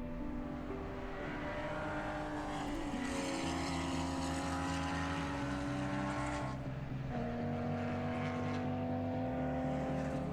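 Motorcycle engine running at a steady speed, its pitch stepping up or down a few times.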